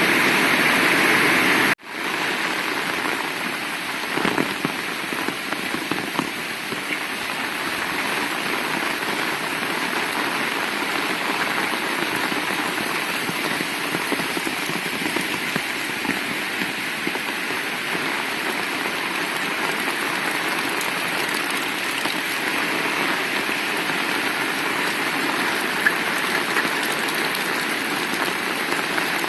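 Heavy rain falling steadily, an even hiss of many drops. About two seconds in the sound drops out for an instant, then comes back slightly quieter and with a different texture.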